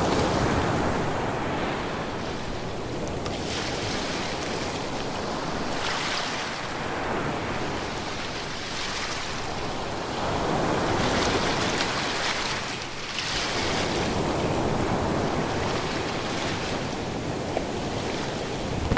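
Ocean surf: waves breaking and washing up the shore, the rush swelling and falling back every few seconds.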